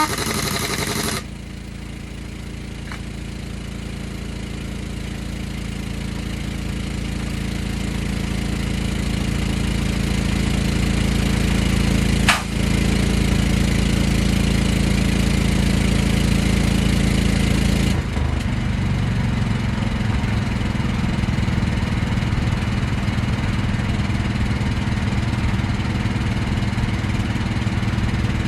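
An engine running steadily, growing louder over the first twelve seconds, with a sharp click about twelve seconds in and a change to a lower, rougher note about eighteen seconds in.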